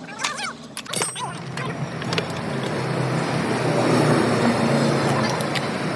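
A motor vehicle engine drone that swells to a peak about four seconds in and then eases off, like a vehicle going past, with a few sharp clicks, the loudest about a second in.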